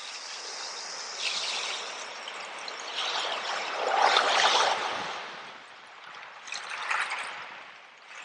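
Ocean waves washing in and receding, several swells of rushing water, the biggest about four seconds in.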